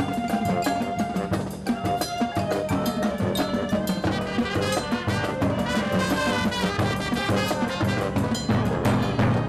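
High school marching band playing its field show: brass sustaining chords over a steady drum beat.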